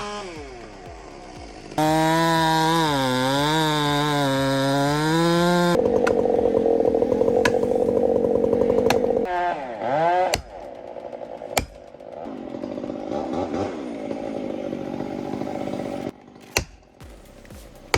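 Chainsaw running at full throttle and cutting, its engine note rising and falling under load, then dropping to a quieter steady run, with a few sharp clicks in between.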